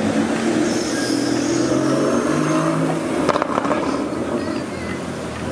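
Porsche Cayman engine and exhaust as the car pulls through at low speed, the engine note stepping up in pitch about two seconds in as it accelerates. A sharp click comes a little after three seconds.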